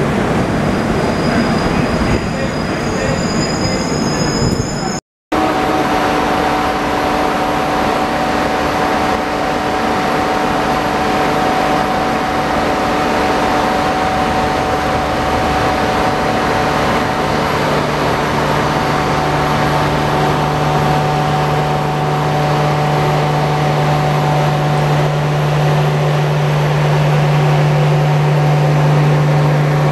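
A slow-moving express train rolling past a platform. Its coaches pass with steady rumble and a constant mechanical hum, and the hum grows much louder about halfway through as a louvred power car comes alongside. Before a cut about five seconds in, a crowded platform with voices and a thin high whine from another train.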